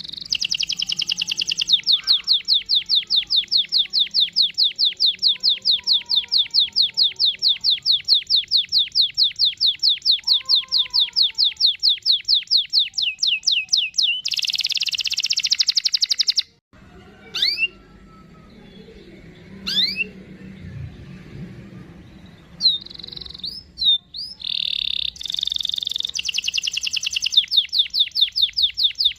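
Domestic canary singing: a long rolling trill of rapid repeated notes, then a denser buzzing roll that breaks off suddenly about halfway through. A few scattered chirps follow before the rolling trills start again near the end.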